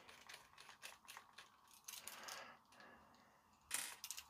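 Faint clicks and scraping of a screwdriver working tight screws out of a hairdryer's plastic housing, with a short cluster of clicks near the end.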